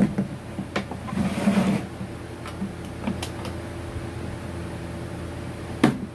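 A few sharp knocks and clicks and a brief scrape over a steady low hum, with the loudest knocks at the start and near the end.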